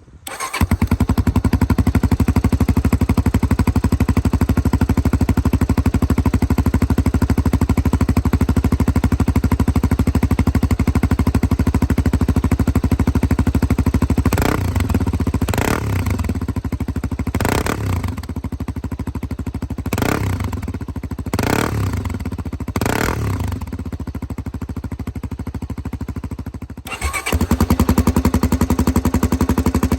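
Honda XR250 (MD30) single-cylinder four-stroke engine idling through a DELTA muffler fitted with a silencer restrictor. It is blipped six times about halfway through, and the sound breaks off briefly near the end before the idle picks up again.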